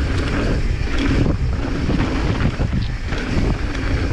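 Wind buffeting the microphone with a steady low rumble during a mountain-bike descent, over the bike's tyres rolling on a rough dirt trail.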